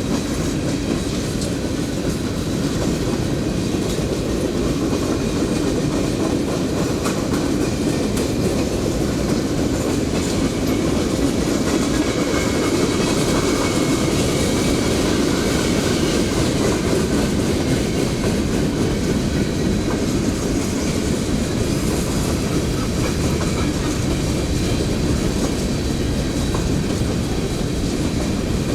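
A long freight train's cars rolling past steadily, their wheels clicking over the rail joints.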